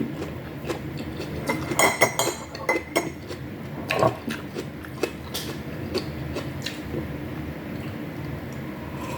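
Cutlery clinking and scraping against a plate during a meal: a scattered run of sharp clicks, a few with a brief ring.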